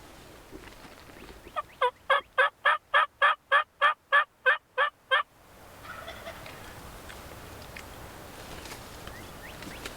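Turkey yelping: a loud run of about thirteen evenly spaced yelps, roughly four a second, lasting about three and a half seconds, over a background of wind.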